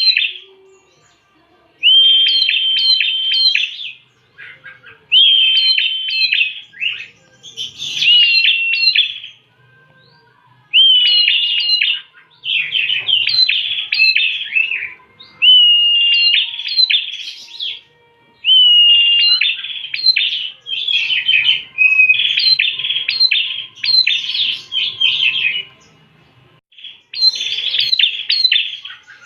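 Prenjak (a prinia) singing: about ten phrases of rapid, sharp chirps, many with a held whistled note, each phrase a second or two long with short pauses between.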